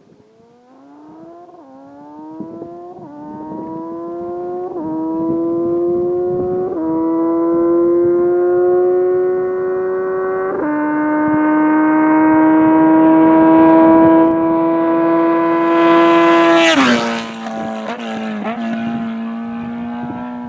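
Kawasaki Z900RS inline-four with a Holeshot Lextek header and 10-inch Bad Boy muffler, heard from a mic under the seat, accelerating hard up through five gear changes: the pitch climbs in each gear and drops at each shift. About 16 seconds in the throttle snaps shut and the engine falls away with a few crackles, then runs steady at a lower speed.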